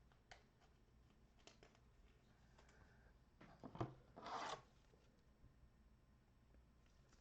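Trading-card handling in near silence. About three and a half seconds in come a few light clicks, then a brief rasping rub of card stock or pack wrapper.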